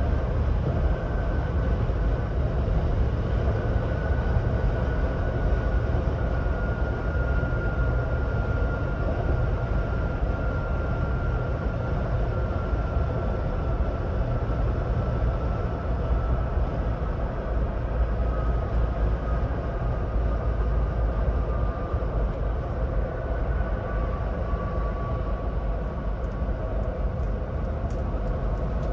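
2026 Ford Bronco Badlands cruising at highway speed: steady low road and tyre rumble with a faint high whine that slowly falls in pitch.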